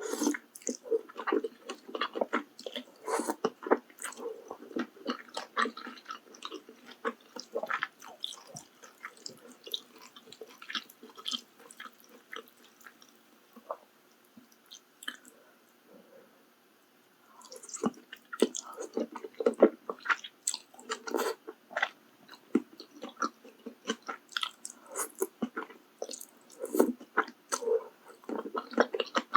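Close-miked ASMR eating: wet chewing and biting of mala tang, with soft crunches. There is a quieter lull about halfway through before the chewing picks up again.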